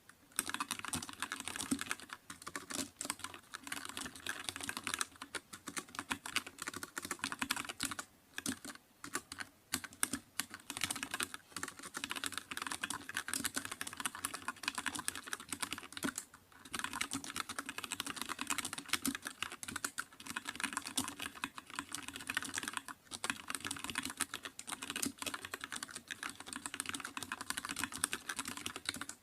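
Computer keyboard typing: a fast, steady run of keystroke clicks, with a few short pauses.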